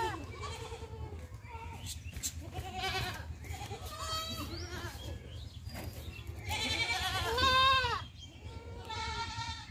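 Goats bleating, a string of wavering calls at different pitches, several overlapping; the longest and loudest call comes about seven seconds in. A steady low hum runs underneath.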